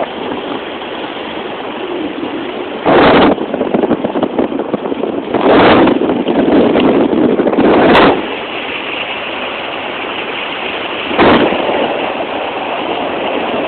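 Wind rushing over a phone's microphone on the roof of a moving car, with loud buffeting gusts about three seconds in, from about five and a half to eight seconds, and again near eleven seconds.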